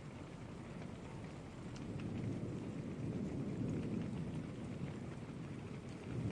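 Steady rain falling with a low rumble of thunder that builds about two seconds in and stays strong through the middle; a few faint drop ticks on top.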